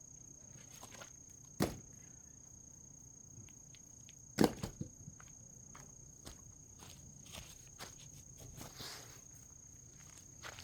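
A steady high trill of crickets, with two sharp knocks about one and a half and four and a half seconds in and lighter taps between: pieces of firewood being handled and gathered up as kindling.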